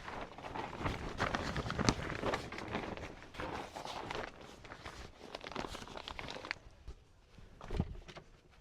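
Footsteps with small knocks and rustles. They are busy for the first six and a half seconds, then go quieter, with one low thump near the end.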